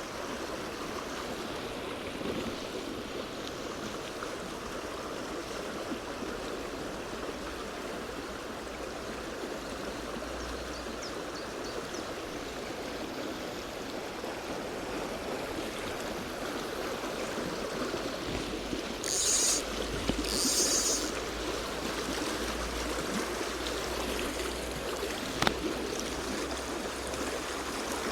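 Rocky stream in spate, flowing with a steady rushing sound. About two-thirds of the way through come two short hissing bursts close together, and near the end a single sharp click.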